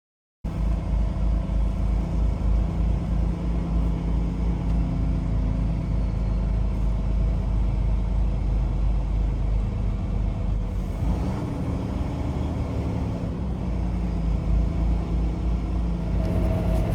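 Semi truck's diesel engine running with a steady low rumble, starting abruptly about half a second in.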